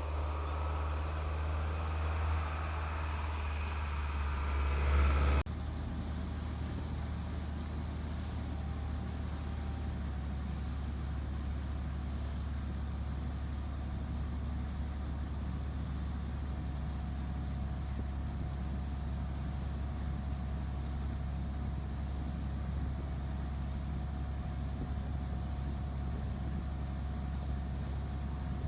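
Steady low rumble. A busier, louder layer of sound cuts off abruptly about five seconds in, and the rumble carries on alone.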